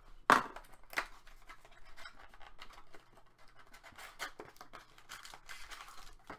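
Trading cards being handled on a table: a run of sharp taps and clicks with some scraping as cards are slid and set down, the loudest tap about a third of a second in.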